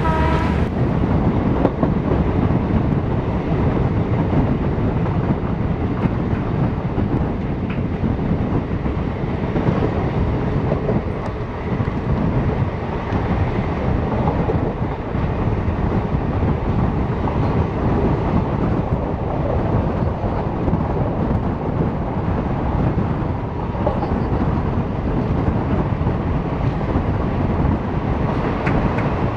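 Passenger express train running, heard from a coach doorway: a steady rumble of wheels on rail.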